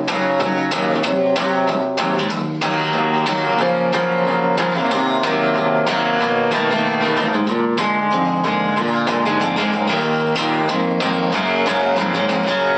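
Guitar playing an instrumental passage of plucked and strummed notes, with no singing.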